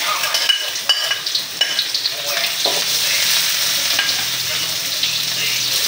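Chopped ingredients dropped into hot oil in an aluminium wok, sizzling at once, while a metal ladle clinks and scrapes against the plate and wok as they are stirred. The sizzle settles into a steady hiss after the first couple of seconds.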